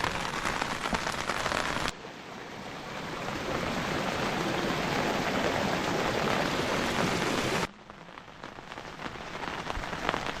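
Steady rain falling, an even hiss. It drops away abruptly about two seconds in and again near eight seconds, each time swelling back up over a few seconds.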